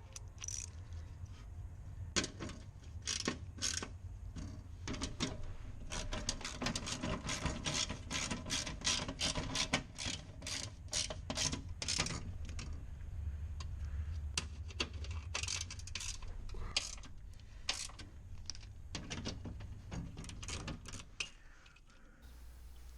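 Hand ratchet clicking in quick, irregular runs, thinning out and stopping near the end.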